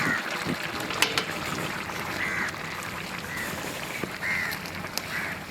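A bird calling in short repeated notes, about once a second, over a steady background hiss.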